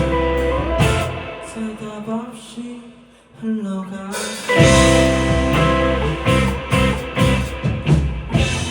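Live rock band with electric guitar and drum kit. The full band drops away a second in to a sparse, quieter passage, then comes crashing back in loudly about halfway through.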